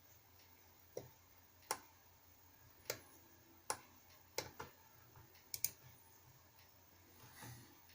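Sparse, irregular clicks of a computer mouse, about eight in all, some in quick pairs, with a soft brief rustle near the end.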